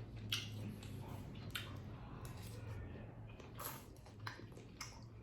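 Cutlery clinking and scraping on a plate, about half a dozen short sharp sounds spread out, over a low steady hum.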